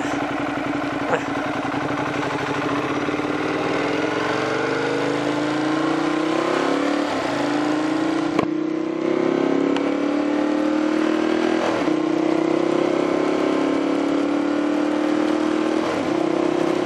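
Sportbike engine pulling under acceleration, its pitch climbing slowly. About halfway through, a gear change drops the pitch before it climbs again. A steady rush of wind noise runs underneath.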